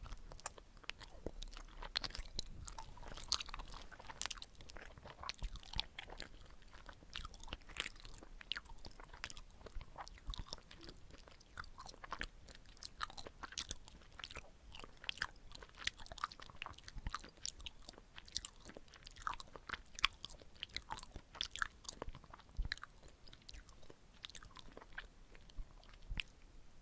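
Close-miked chewing of chapssal-tteok, chewy glutinous rice cakes filled with red bean paste: soft, sticky mouth sounds with many small wet clicks and smacks, on and off throughout.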